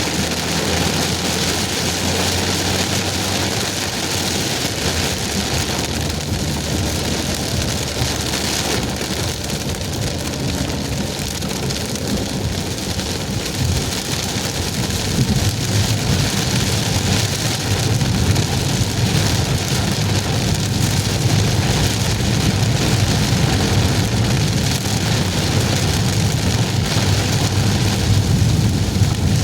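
Heavy rain falling on a moving car, mixed with steady tyre and road noise. A low rumble grows louder about halfway through.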